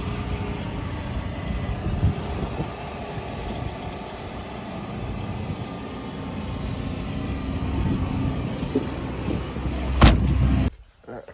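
Steady rumble of motor vehicle noise, with a sharp thump about ten seconds in, after which the noise drops away abruptly.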